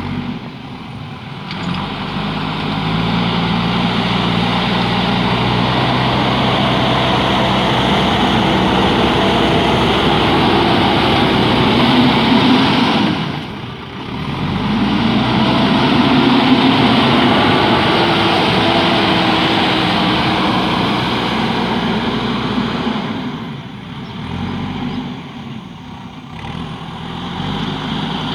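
JCB backhoe loader's diesel engine running hard under load, its pitch rising and falling as it works. The sound drops off sharply for a moment about halfway through and eases for a few seconds near the end.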